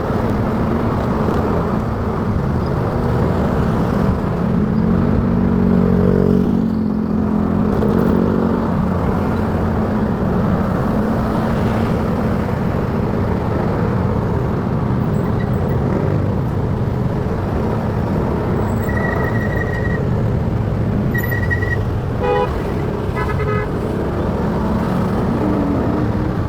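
Motorcycle riding along a city road: steady engine and wind-and-traffic noise, with the engine pitch rising and falling a few seconds in. Several short vehicle-horn toots sound near the end.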